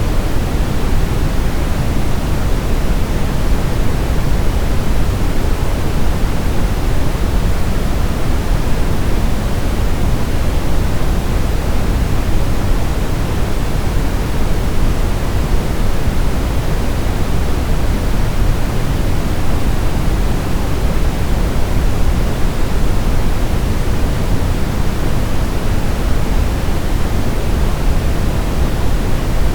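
Steady brown noise: an even rumbling hiss, strongest in the bass and falling away in the highs, without change.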